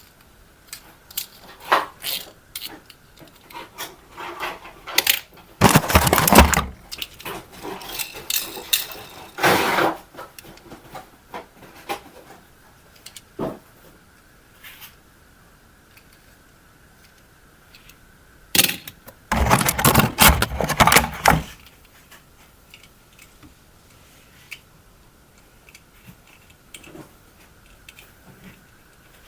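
Hands handling a toy and its packaging: scattered clicks and taps, with louder bursts of rustling about six seconds in and again around twenty seconds in. A faint steady tone runs under the second half.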